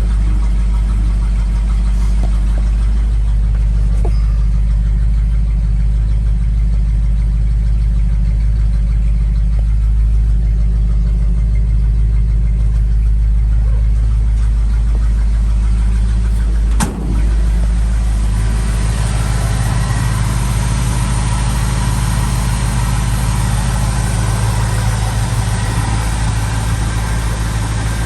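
1970 Ford F-250 Camper Special's engine idling steadily just after a cold start, with a deep, even note. About 17 seconds in there is a short click and a brief dip in level, after which the sound becomes brighter and hissier.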